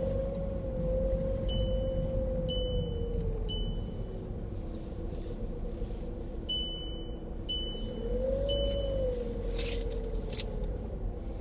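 Strange whining hum from the front right wheel of an Audi A1 automatic, heard inside the cabin over road rumble; the single tone rises and falls, fading in the middle and swelling again about eight seconds in. Short high beeps sound in groups about a second apart.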